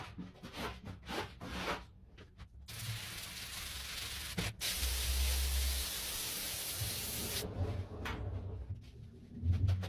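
Carpet scrubbed in quick repeated brush strokes, then a steady spraying hiss for about five seconds, then scrubbing strokes again near the end.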